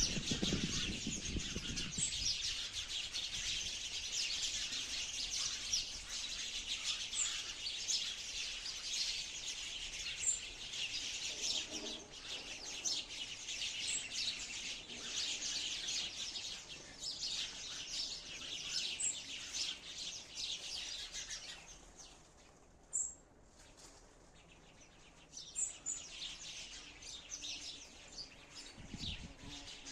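Sparrows chirping and chattering in a dense, continuous overlapping stream of quick calls, with occasional higher single notes. The chatter drops away for a few seconds about three quarters of the way through, then picks up again.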